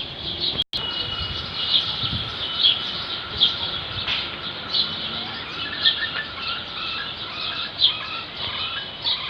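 Many captive park birds chirping and calling together, with sharp high calls repeating about once a second over the chatter. The sound drops out completely for a moment just under a second in.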